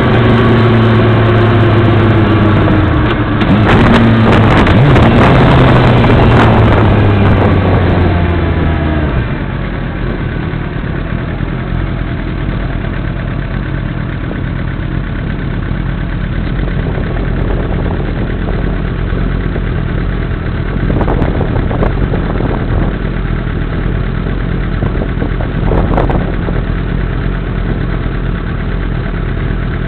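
Motorcycle engine heard through a dash camera's microphone. Its note falls over the first several seconds as the bike slows. At about nine seconds it drops to a quieter, steady running, with two brief louder moments later on.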